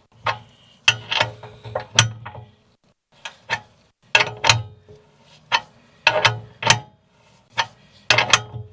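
Hand ratchet wrench clicking in short bursts, roughly one stroke a second, turning the bolt of a pressing tool that pushes the CV axle out of the rear wheel hub.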